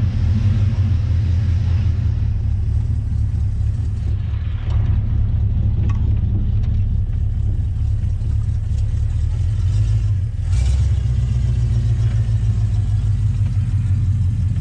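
A car engine running steadily with a deep, low rumble; the level dips briefly about four and a half seconds in and again about ten seconds in.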